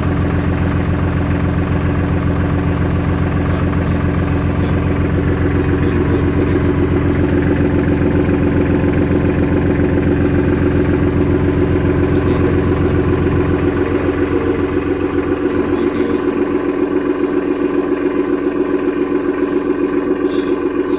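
Powertrac Euro 50 tractor's three-cylinder diesel engine running steadily at an even speed. About two-thirds of the way through, its deep low rumble drops away while the engine runs on.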